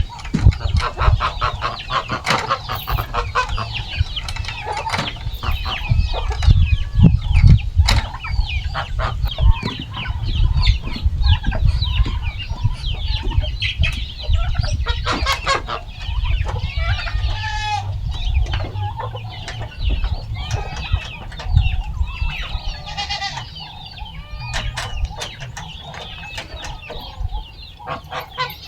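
A flock of chickens clucking and squawking continuously, as hungry birds do while waiting to be fed, over a low rumble.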